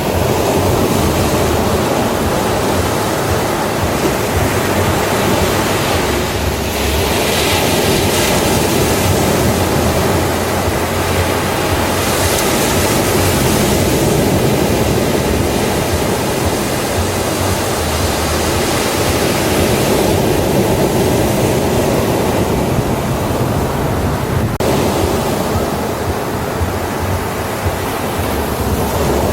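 Ocean surf breaking on a beach: a continuous rush of waves, with the hiss of washing water swelling about a quarter of the way in and again near the middle.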